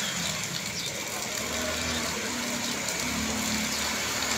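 A car engine running at low revs as the car drives slowly through floodwater, over a steady hiss of heavy rain and water.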